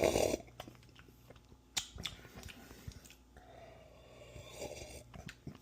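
A person sipping hot coffee with a short slurp at the start and a softer one about four and a half seconds in, with a few small clicks between.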